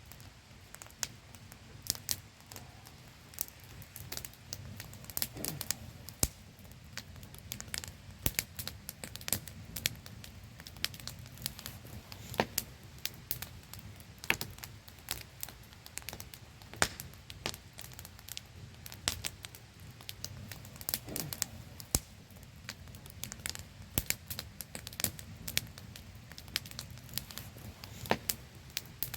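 Wood campfire crackling and popping in quick irregular snaps, over the steady static-like hiss of a small waterfall.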